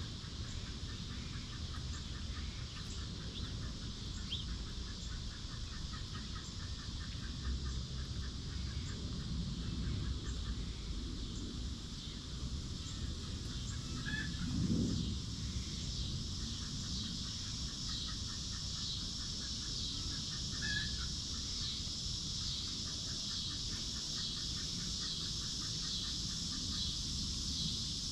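Chickens clucking softly as they forage, with one louder low call about halfway through, over a continuous rapid trilling in the background.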